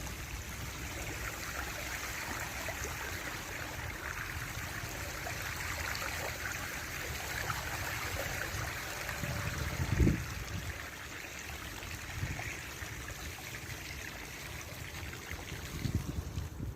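Steady rushing storm noise, with one thump about ten seconds in.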